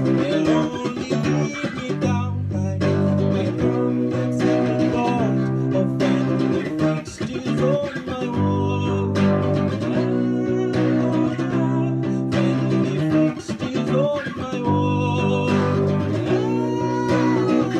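Live band playing an instrumental passage of a song, with plucked guitar over sustained bass notes that change every couple of seconds.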